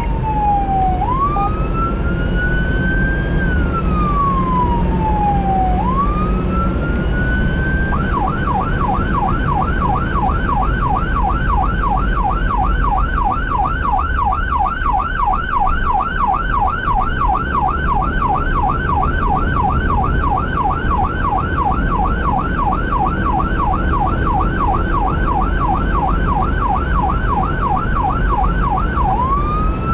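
Emergency-vehicle electronic siren on a responding fire-rescue vehicle. It gives a slow wail, rising and falling, for about eight seconds, then switches to a fast yelp of about three sweeps a second, and returns to the wail near the end. Steady engine and road rumble runs underneath.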